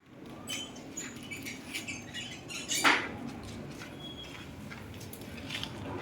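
Automatic snack-packaging machine running: a steady low hum under irregular light clicking and rattling, with one louder rushing clack about three seconds in.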